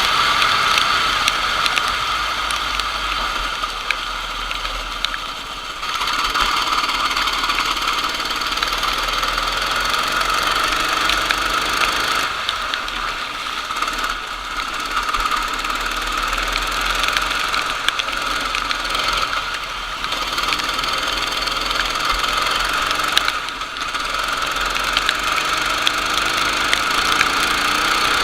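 Racing kart engine running hard through a lap, with short drops in level a few times where the throttle is lifted before it picks up again.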